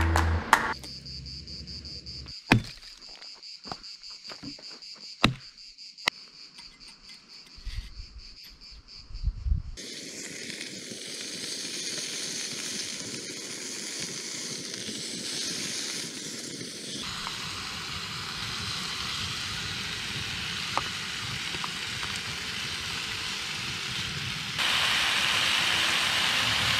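Crickets chirping in a steady, high, pulsing trill, broken by a few sharp clicks; after about ten seconds a steady rushing noise takes over and changes twice.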